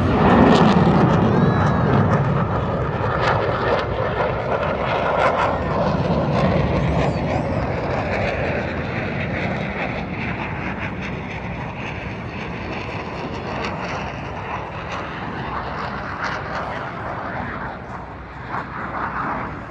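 Airplane flying past, loudest at the start and slowly fading away as it departs.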